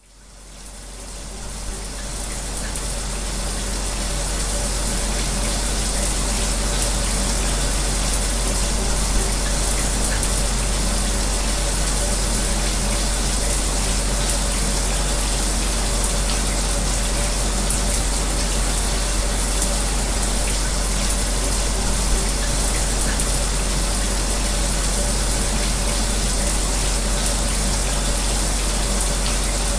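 Steady hiss of a shower's water spray mixed with an electric fan's steady hum, fading in over the first few seconds and then holding even.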